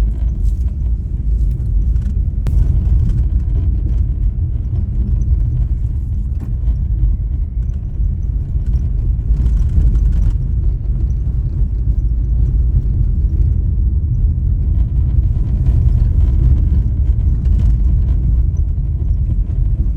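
Steady low rumble of a vehicle on the move: engine and road noise throughout.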